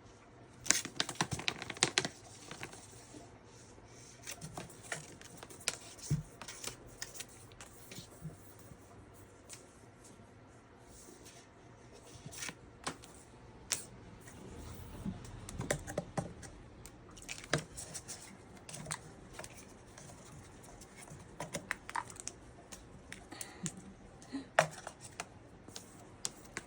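Irregular scratching, tapping and sharp clicks on packaging, in loose clusters rather than a steady rhythm.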